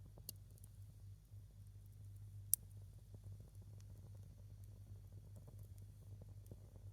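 A single log of firewood burning quietly in a small fire, giving off sparse faint crackles and one sharp pop about two and a half seconds in, over a low steady hum.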